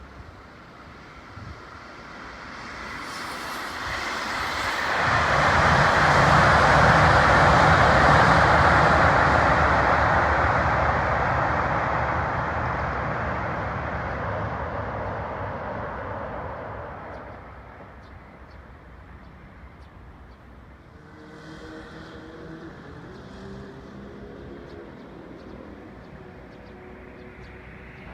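A train crossing a steel railway bridge: a rumbling pass-by that swells over a few seconds, is loudest about six to ten seconds in, and fades away by about eighteen seconds. Afterward a fainter hum with several steady tones that step in pitch.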